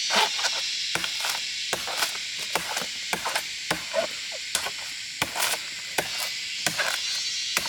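Irregular sharp knocks and snaps of wood being chopped or worked, a few a second, over a steady high insect drone.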